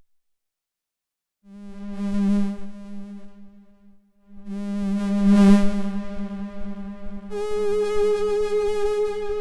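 SOMA Lyra-4 synthesizer drone: a buzzy pitched tone full of overtones. It starts about a second and a half in, fades, and swells back with a noisy rush. Near the end it shifts to a brighter tone an octave up.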